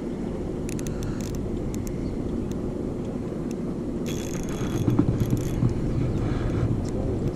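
An engine running steadily with a low hum, with brief rustling and clicking of handling noise about four to six seconds in.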